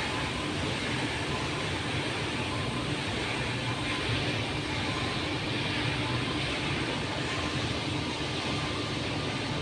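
Heavy machinery running steadily, a continuous mechanical drone with a low hum and faint steady tones, typical of diesel truck engines and unloading equipment at work.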